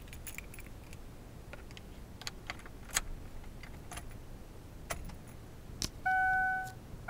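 Car keys jangling and clicking in a 2004 Ford Taurus SES, then near the end one electronic warning chime from the car's dash rings out and fades.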